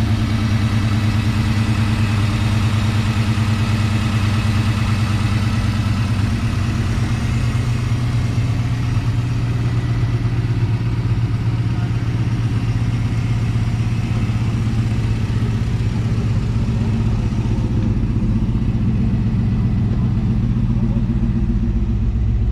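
A GM 5.3-litre LS V8 with FiTech fuel injection idling steadily, with a low, even exhaust note.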